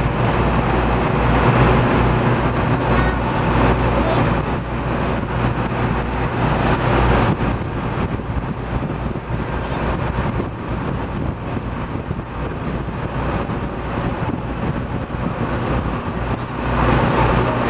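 A sightseeing boat's engine runs with a steady low hum under a broad rush of churning water and wind. The rush is louder for the first several seconds and swells again near the end.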